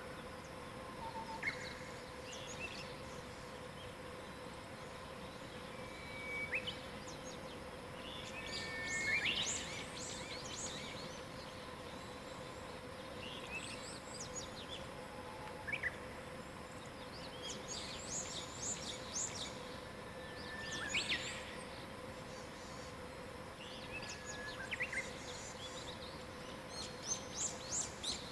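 Wild songbirds chirping and trilling in scattered bursts, some calls short and high, others quick descending phrases. Under them is a steady faint background hiss with a low, even hum.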